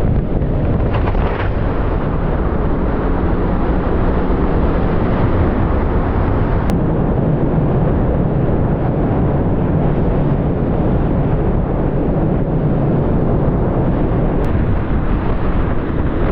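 Simulated hurricane-force wind from a full-scale wind-test facility's fan array blowing over a test house: a loud, steady rushing with a heavy low rumble.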